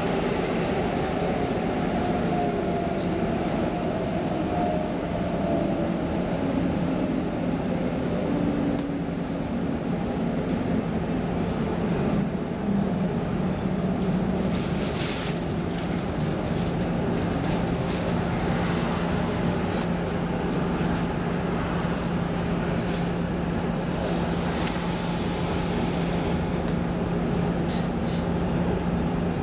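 Stockholm commuter rail X10 electric train running: steady rumble and rail noise, with a motor whine that falls in pitch over the first dozen seconds and then settles into a steady hum. A few short clicks come in the middle and near the end.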